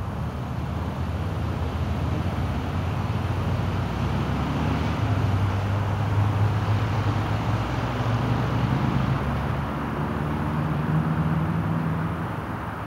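Exhaust of a 2004 Chevrolet Silverado's 5.3L V8 running through a straight pipe with the muffler cut out. The note grows louder toward the middle, dips briefly, then eases near the end.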